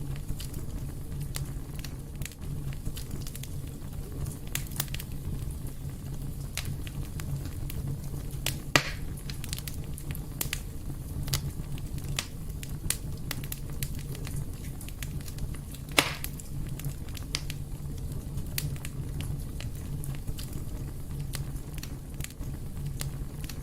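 Fireplace fire burning with a steady low rumble and continual small crackles, with two louder sharp pops, about nine and sixteen seconds in.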